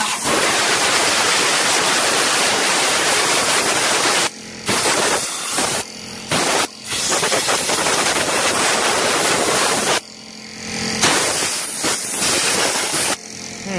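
Compressed air jet hissing loudly as it blows dirt and mouse nest debris off a lawn tractor's engine, in long blasts that cut off briefly several times.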